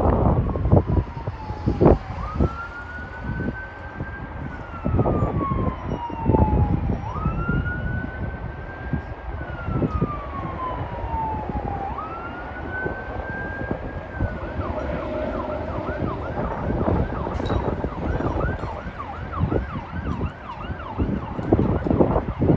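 Emergency vehicle siren on a slow wail, climbing and falling about every five seconds, then switching about two-thirds of the way through to a fast yelp. Gusty wind buffets the microphone with low rumbling surges throughout.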